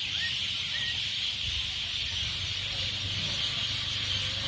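Outdoor ambience: a steady high-pitched hiss over a low rumble, with two short rising chirps in the first second.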